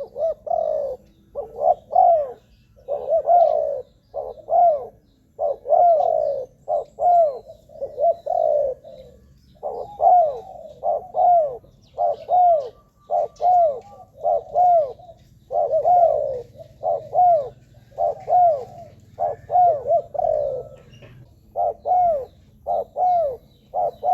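Spotted dove cooing, a continuous run of short, arched coos given in quick groups one after another.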